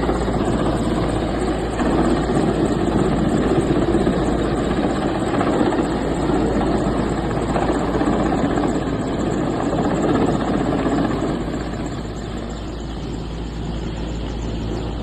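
Steady engine noise, dropping a little in level near the end.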